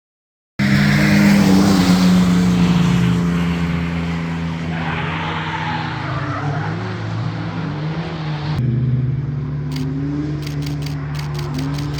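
A drift car's engine revving hard, its pitch rising and falling as the throttle is worked, starting abruptly about half a second in. Near the end a rapid run of sharp clicks, about five a second, sits over the engine.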